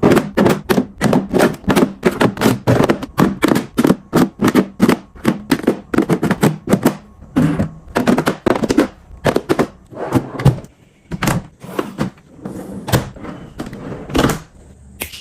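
Food containers and packages being set down and slotted into a refrigerator: a quick, uneven run of knocks and clacks, several a second, thinning out in the last few seconds.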